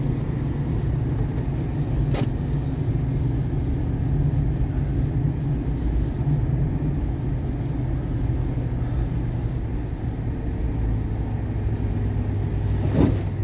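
Pickup truck engine and road noise heard from inside the cab while driving, a steady low rumble. A couple of short knocks come through, one about two seconds in and one near the end.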